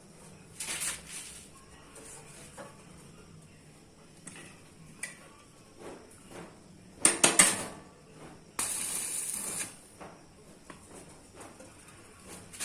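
Light metal clinks and knocks from sheet-steel parts being handled, with a quick cluster of loud clanks about seven seconds in, followed by a hiss lasting about a second.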